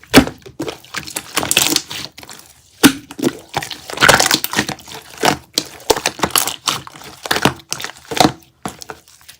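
Close-up crackling and crinkling handling sounds with irregular clusters of sharp clicks and taps.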